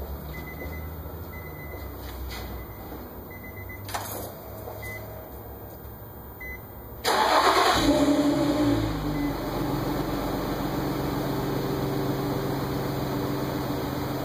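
Short repeated beeps and a click, then about seven seconds in the 2007 Infiniti FX35's 3.5-litre VQ V6 starts with a brief flare of revs and settles into a steady idle through its stock exhaust.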